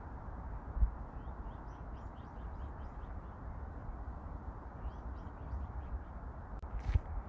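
A small bird calling in two quick runs of short, high chirps over a steady low rush of wind on the microphone. A couple of footsteps near the end.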